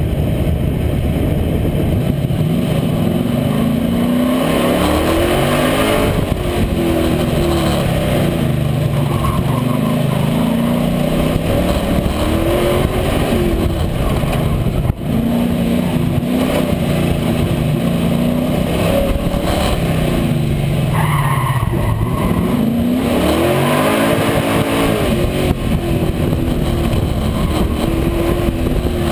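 A 357 small-block Chevy V8 running hard, its pitch climbing and dropping back over and over as it accelerates and lifts between corners.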